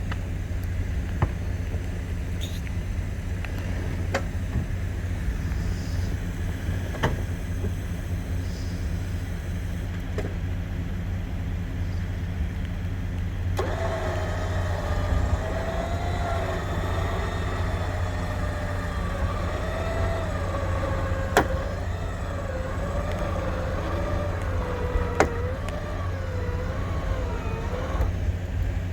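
Vehicle engine idling steadily with scattered clicks, then about halfway through an electric winch motor starts whining under load, its pitch wavering and slowly dropping as it pulls, and it cuts off shortly before the end.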